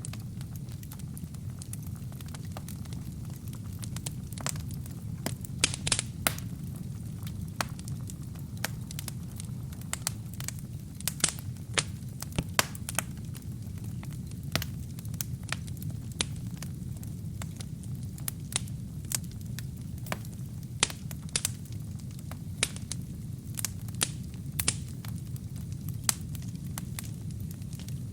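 Wood fire burning in a fireplace: a steady low rumble of flames with irregular crackles and sharp pops from the burning logs, a few of them much louder than the rest.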